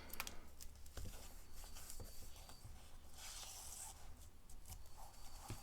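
Faint paper handling: a glued paper page being laid down and rubbed flat by hand, with a few light taps and a brief soft rustle about three seconds in.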